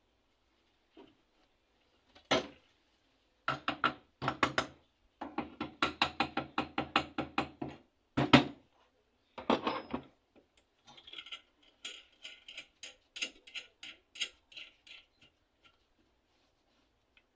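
Bursts of rapid mechanical clicking, about five clicks a second, with a few sharp knocks between them, then fainter, lighter clicking in the second half.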